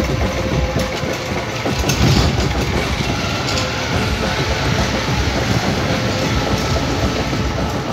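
Small motorcycle engine running steadily as the bike rides along, with rumbling wind noise on the microphone.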